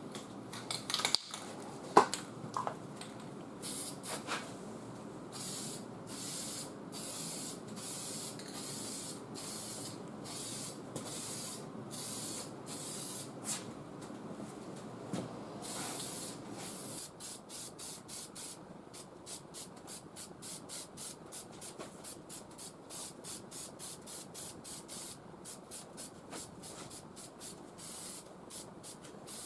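Aerosol can of high-temperature engine enamel spraying in repeated hissing bursts, laying down a light first coat. The bursts get shorter and quicker through the second half. There is a sharp click about two seconds in.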